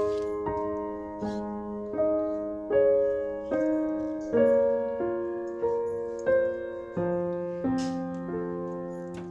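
Background piano music: a gentle, even melody with a new note or chord struck about every three-quarters of a second.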